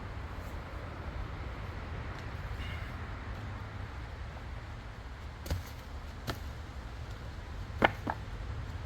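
Steady low background rumble with four short, sharp clicks or knocks in the second half, the loudest a little before the end.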